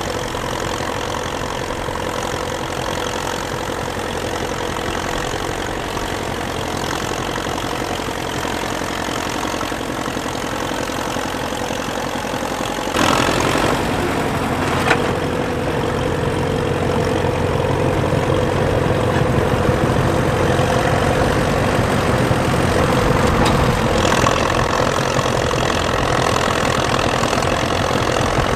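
Minneapolis-Moline UTS tractor engine running steadily under load, pulling a cultivator with its tines almost at full depth. About halfway through, the engine abruptly becomes louder and fuller.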